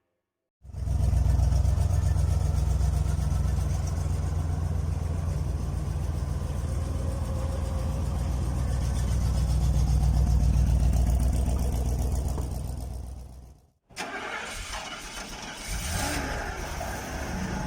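A car engine starts up about half a second in and runs with a deep, steady rumble that fades out near the end. After a brief gap, another engine runs with more rattle and hiss.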